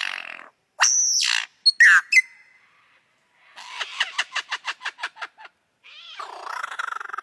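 Lyrebird singing its mimicry song: a couple of loud whistled calls, then a run of rapid clicks, about six a second, and a chattering rattle building near the end.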